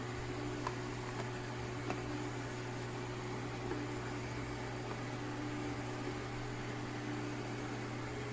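Steady machine hum from a running motor or fan, with an even hiss and a few faint light clicks about a second and two seconds in.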